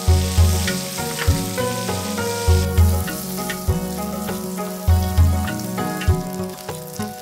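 Shallots sizzling as they fry in hot oil in a nonstick pan, moved about with a spatula. Background music with steady notes and a deep beat that pulses about every two and a half seconds plays over the sizzle.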